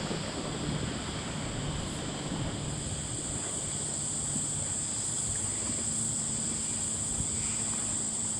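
Wind buffeting the microphone, with a low rumble and a steady high hiss.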